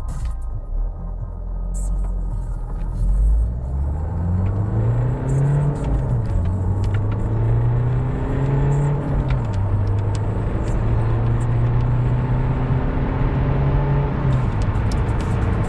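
Renault Megane II 2.0 dCi four-cylinder turbodiesel accelerating hard from a standstill and pulling through the gears. The engine note climbs steadily and drops at each upshift: three shifts, a little over a third of the way in, just past halfway and near the end.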